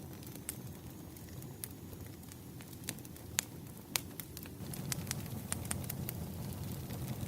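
Wood fire crackling: irregular sharp pops and snaps over a low steady rumble, the rumble growing louder about two-thirds of the way in.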